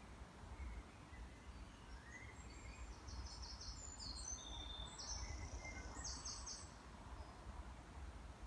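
Birds calling: a few short, high chirps and trills, bunched in the middle, over a steady low rumble.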